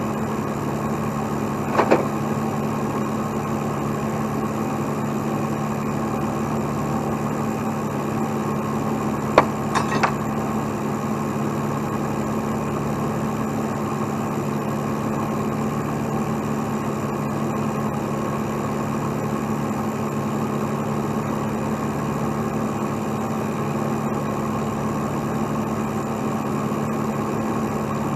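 A heavy truck's diesel engine running steadily at a constant speed, with a few short metallic clanks about two seconds in and again near ten seconds in.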